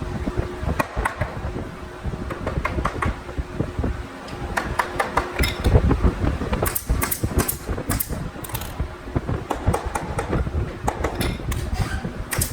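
Carpentry work: irregular knocks, taps and clicks of wood and tools being handled, over a steady hum that stops about halfway through.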